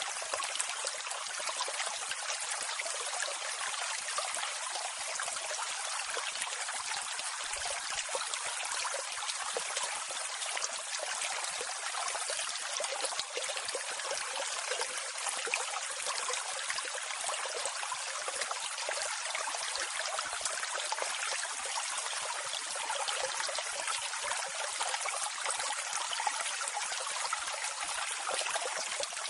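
Steady rushing of a waterfall's water over rocks, an even hiss with no deep rumble.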